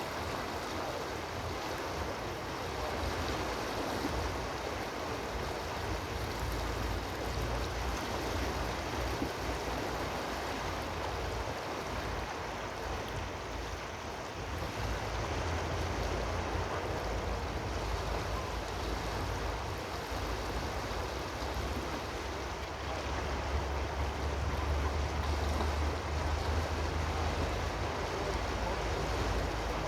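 Steady rushing water, an unbroken hiss with a low rumble beneath it.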